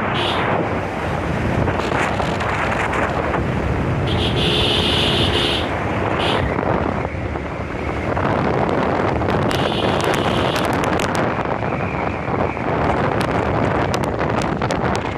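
Wind rushing over the microphone of a moving motorbike, with steady road noise underneath. A brief, higher-pitched sound comes through about four seconds in.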